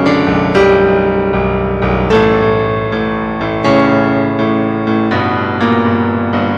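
Instrumental passage of a pop song: piano or electric-piano chords struck about once or twice a second, with no vocals.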